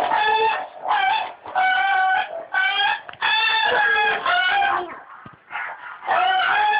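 A child's electronic noise-making toy sounding a string of loud, buzzy, pitched squawks, each half a second to a second long, with a short lull about five seconds in.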